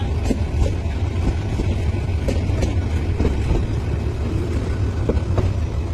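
A train's coaches and van rolling slowly past at close range: a steady low rumble with irregular knocks and clanks from the wheels and couplings.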